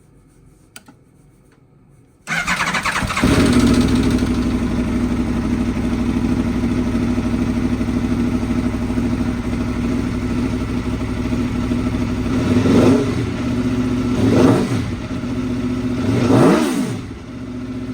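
2022 Aprilia Tuono V4 Factory's V4 engine cranking and firing up about two seconds in, then idling steadily with a throaty sound. Near the end it is revved three times in short blips, each rising and falling in pitch.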